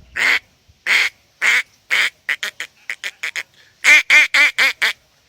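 A man imitating the calls of a male mallard with his voice: a string of short quacks, spaced at first, then a quicker run of small ones, ending in five loud quacks in quick succession near the end.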